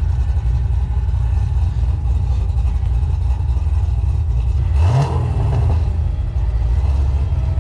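Car engine running with a loud, deep rumble, with one quick rising rev about five seconds in.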